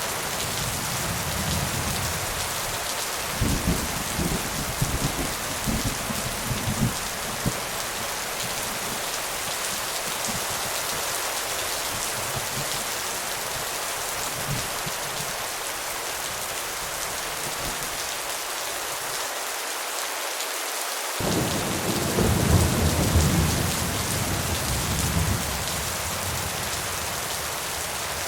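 Steady rain with two rolls of thunder: one rumbling a few seconds in for about four seconds, the other starting suddenly about two-thirds of the way through.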